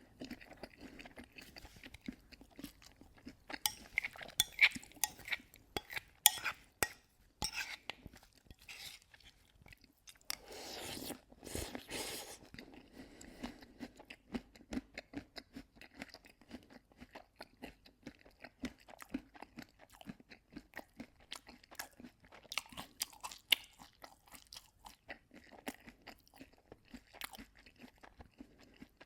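Close-up crunchy chewing: many irregular crisp crunches as food is bitten and chewed, with a denser, continuous stretch of crunching noise about two seconds long partway through.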